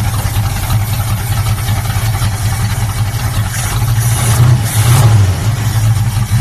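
Pontiac 400 V8 idling steadily, with a brief rise in level about four to five seconds in; the owner says it runs with no vacuum leak.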